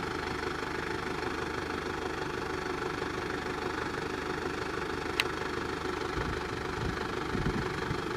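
Mitsubishi Delica van's engine running steadily as it drives, with one sharp click about five seconds in.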